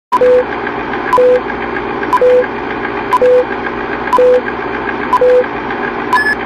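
Intro sound effect over a steady hiss: about once a second a click followed by a short high beep and a longer lower beep, six times, then a higher beep near the end before it cuts off suddenly.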